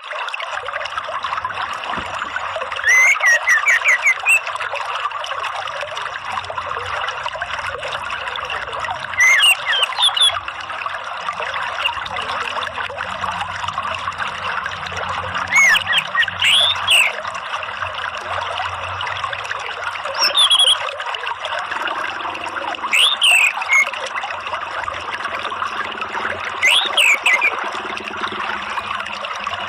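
Steady running water with an orange-headed thrush singing over it in short, loud whistled phrases of rising and falling notes every few seconds. It is a lure recording used to get a caged bird of the same species to sing.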